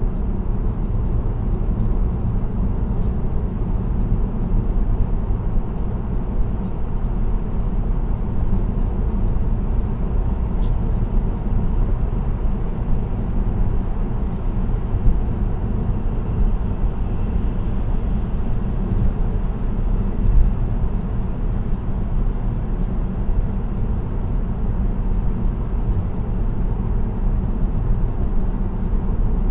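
Steady road and tyre noise from a car cruising on an expressway, heard from inside the cabin: a continuous low rumble with faint light ticking throughout.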